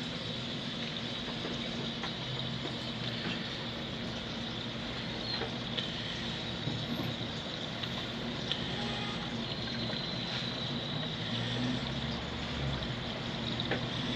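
Steady water trickle with a low hum from an aquarium filter running, with a few faint ticks.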